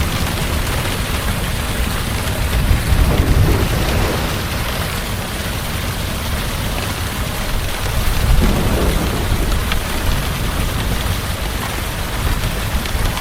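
Heavy rain falling steadily, with low rolls of thunder swelling about three seconds in and again about eight seconds in.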